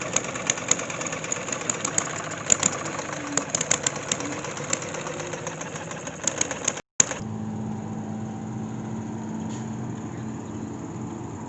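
Small running engine giving rapid, uneven pops, typical of a small stationary gas engine driving a water pump. After a sudden break about seven seconds in, a steadier engine hum follows.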